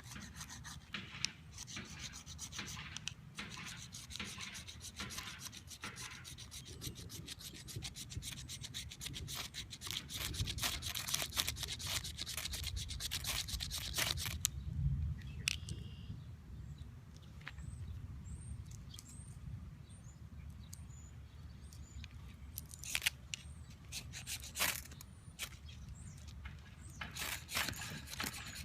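Fire steel (ferrocerium rod) scraped over and over to throw sparks onto cottonwood fungus shavings, which do not catch. The scraping is dense and rapid through the first half, pauses in the middle, then comes back as a few separate strikes near the end.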